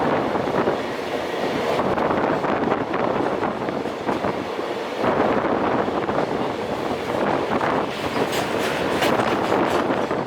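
Passenger express train rolling through the station, its wheels clattering steadily over the rails, with a run of sharp clicks near the end as wheels pass over rail joints.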